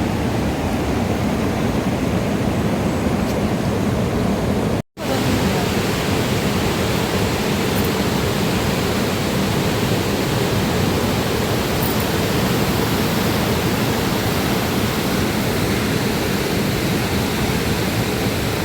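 Steady, loud rushing of water with no distinct events, cut off for an instant about five seconds in.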